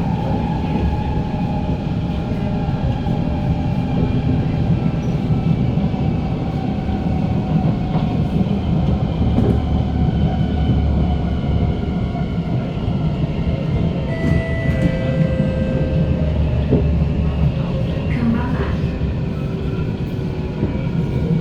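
SMRT C151 metro train running on the line, heard from inside the car: a steady rumble of wheels on track with a faint whine that slowly falls in pitch. A few short higher tones come in about two-thirds of the way through.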